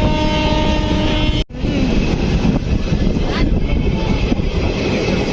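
A train horn sounding one steady note, cut off abruptly about a second and a half in. After that comes the steady rumble and rattle of a moving train, heard from on board.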